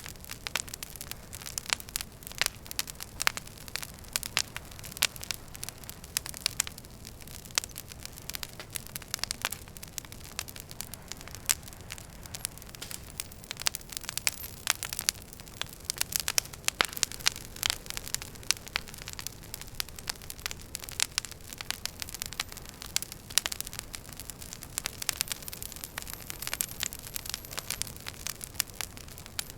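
Wood fire crackling in a fireplace: dense, irregular sharp pops and snaps over a steady low hiss and rumble of the flames.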